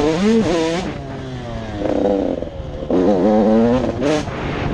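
Motocross dirt bike engines revving hard, the pitch swooping up and dropping again and again as the throttle is opened and closed through the gears. Another bike's engine note falls away about two seconds in, then a fresh surge of revving follows.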